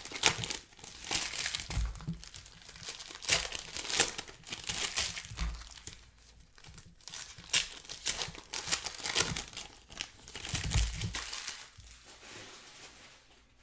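Plastic wrapping of trading-card packs crinkling and tearing as the packs are opened by hand, in a run of irregular crackles.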